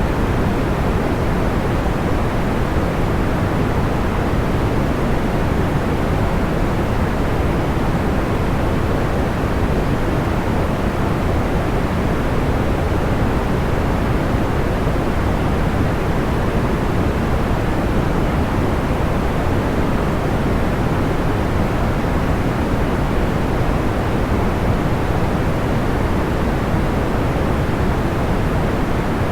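Steady sleep white noise, soft and even, weighted toward the low end, with no distinct crackles or pops.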